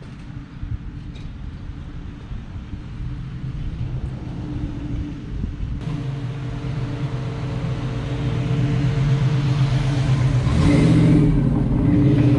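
Restomod 1970 Chevrolet El Camino's engine running steadily with a low rumble, growing louder through the second half.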